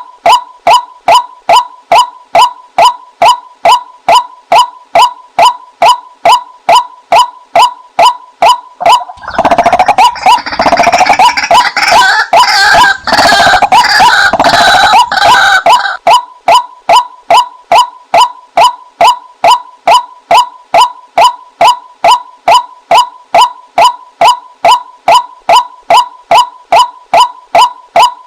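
Female white-breasted waterhen calls played as a decoy: a short call repeated evenly about twice a second. From about nine seconds in to about sixteen seconds, it gives way to a louder, harsher run of fast chattering calls, then the even repeats resume.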